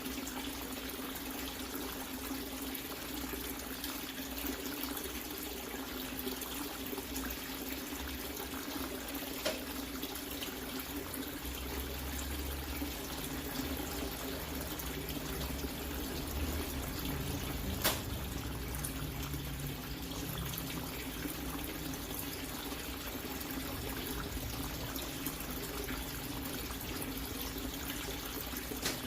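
Water running steadily, with a low steady hum beneath it and a couple of sharp clicks, the louder one a little past halfway.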